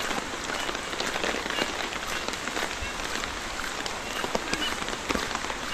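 Heavy rain falling on a flooded street and on leaves: a steady hiss with many small sharp drop ticks throughout.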